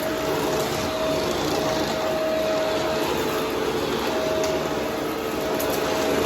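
Vacuum cleaner running steadily with its brushroll spinning, a steady whine in it cutting out and back in every second or so.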